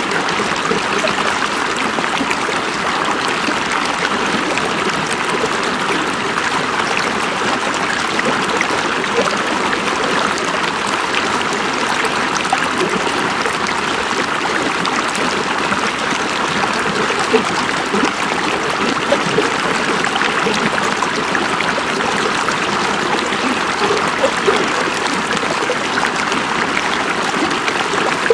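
River water running over rocks: a steady rushing and babbling with small splashes here and there.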